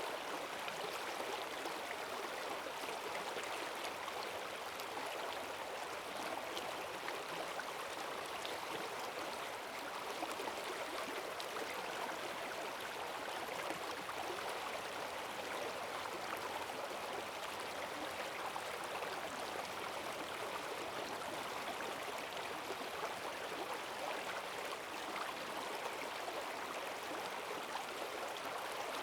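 Forest stream running full after heavy rain: a steady rush of fast water over stones, even and unbroken.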